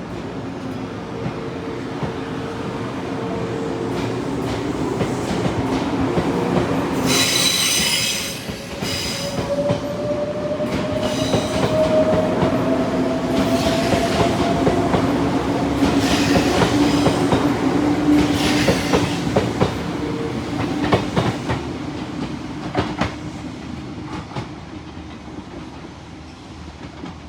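Izukyu Resort 21 'Kinme' electric train pulling away: its motor whine rises in pitch as it accelerates and the wheels click over the rail joints, growing louder, then fading as it leaves. A brief shrill high sound comes about seven seconds in.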